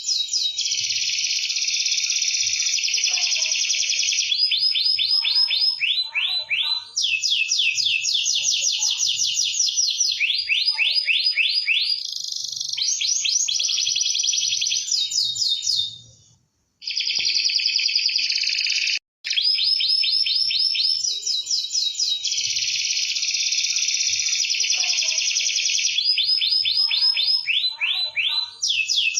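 Domestic canary singing continuously in fast rolls and trills, runs of rapidly repeated high notes changing from phrase to phrase. The song breaks off briefly a little past halfway, and again for an instant soon after.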